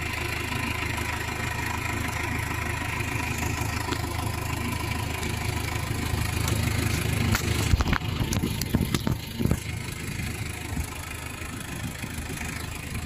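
Crane lorry's engine running steadily as the truck drives, with a short burst of knocks and rattles about eight seconds in.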